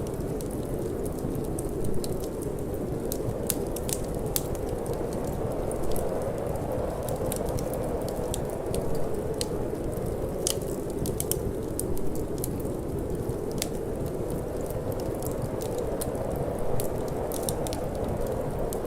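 Wood fire in a fireplace crackling, with frequent irregular sharp pops, over a steady low rush of wind.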